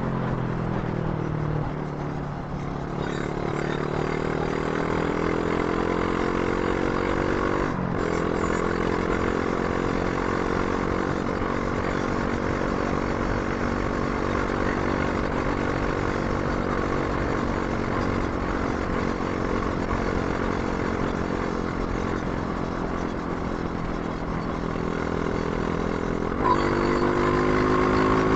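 Brixton Crossfire 500 parallel-twin engine under way: the engine note drops in the first couple of seconds, then climbs slowly, with a brief break about eight seconds in as a gear change. It then holds fairly steady over road and wind noise, and near the end the throttle is opened and the note rises and gets louder.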